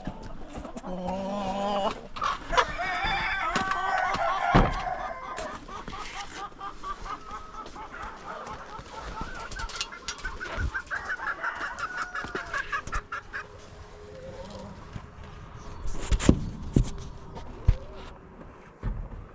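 Chickens calling. There are drawn-out calls in the first few seconds, then a rapid run of repeated clucks for several seconds. A few sharp knocks come near the end.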